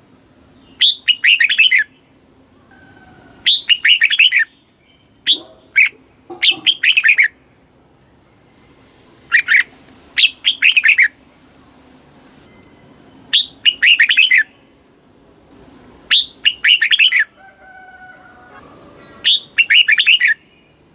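Red-whiskered bulbul singing in short, bright, warbled phrases of about a second each, repeated every two to three seconds with pauses between.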